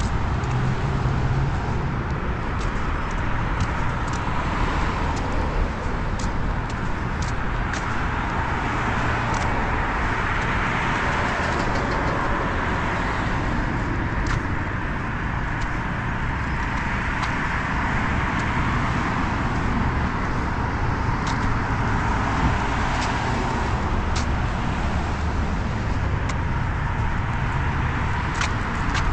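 Street traffic: cars passing, their tyre and engine noise swelling and fading as each goes by, with scattered light clicks.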